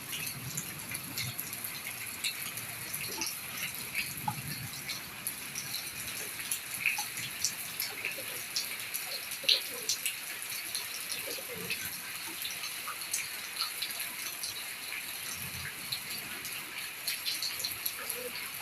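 Steady rain falling, with many separate drops and drips striking surfaces in quick, irregular clicks over a constant hiss.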